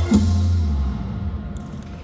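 A band ends its piece. A last accented hit comes just after the start, and the held chord and bass ring out and fade over about a second.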